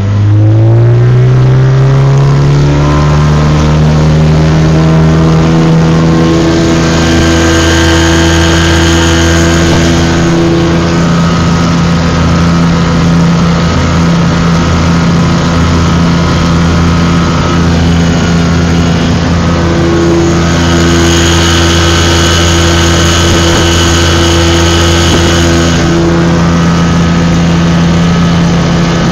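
Motorboat engine speeding up over the first couple of seconds, then running steadily at high revs.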